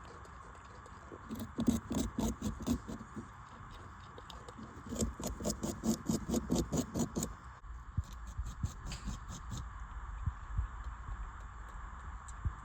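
Beaver gnawing and chewing on a branch: two bouts of rapid crunching, about five bites a second, the first about a second in and the second about five seconds in, over a steady background hum.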